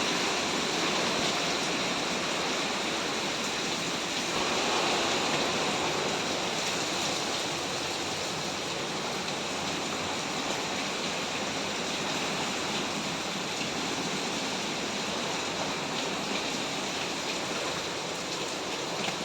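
Hurricane-force wind with driving rain, a steady rushing noise that swells slightly about four seconds in. The wind is super strong.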